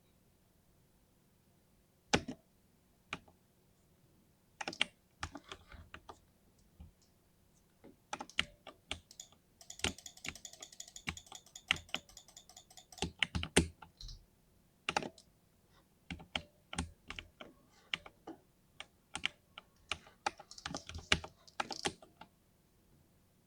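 60% mini mechanical keyboard with lubed linear switches being typed on. Scattered keystrokes start about two seconds in, build to a fast run of typing about ten seconds in, and stop a little before the end.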